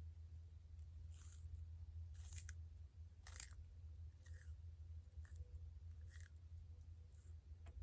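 A tortoise biting and chewing plant food, with short crisp crunches about once a second.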